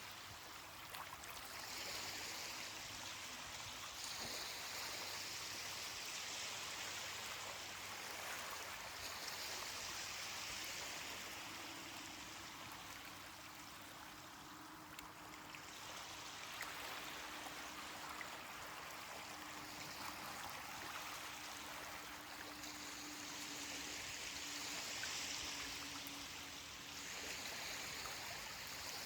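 Ocean surf washing onto a beach, a steady rush of water that swells and eases every few seconds. A faint low hum runs under it through the middle stretch.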